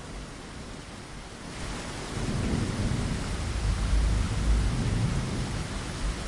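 Steady rain falling on a window, growing heavier about a second and a half in, with a low roll of thunder that swells about two seconds in and fades away near the end.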